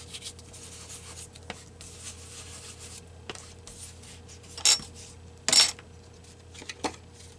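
Ink being rubbed onto the edges of paper and card stock with soft scuffing strokes, with two louder, brief scrapes about halfway through.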